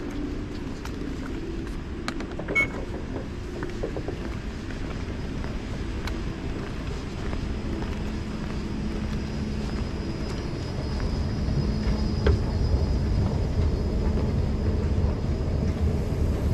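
Singapore MRT train running, a steady low rumble that grows louder about two-thirds of the way through, with a faint steady high whine above it. A short sharp click sounds a few seconds in.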